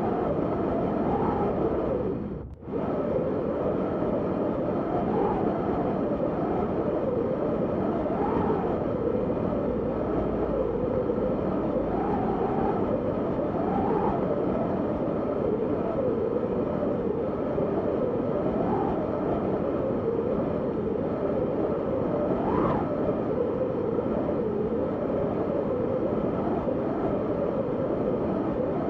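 Steady wind blowing, with gusts that swell and fall in pitch every few seconds. The sound drops out briefly about two and a half seconds in.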